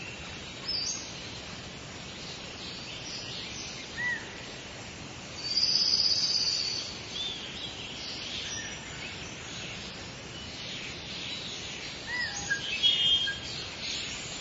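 Wild birds singing and calling over a steady outdoor hiss: a few short high notes that rise and fall, a loud, high, drawn-out call lasting about a second around a third of the way in, and a quick run of high chirps near the end.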